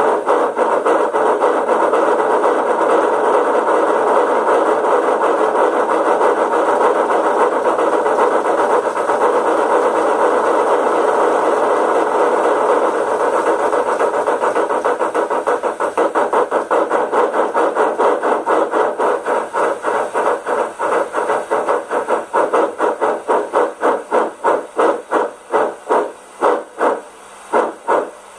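The sound decoder of a Rivarossi H0 Big Boy model locomotive plays steam exhaust chuffs through its small loudspeaker. The chuffs are rapid and run together at first, then slow into separate beats over the last third as the model slows down.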